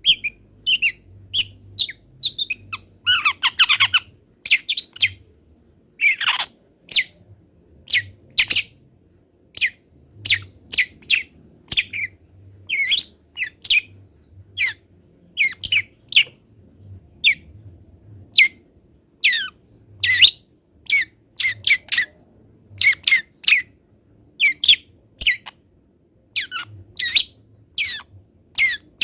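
Long-tailed shrike singing a rapid string of short, sharp chirps and whistled notes, a song packed with mimicked calls of other birds, broken by harsh rasping notes around three and six seconds in.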